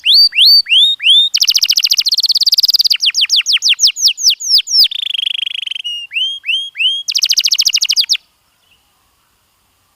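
Domestic canary singing: rapid trills and runs of repeated rising and falling whistled notes, switching to a new phrase every second or so. The song stops abruptly about eight seconds in.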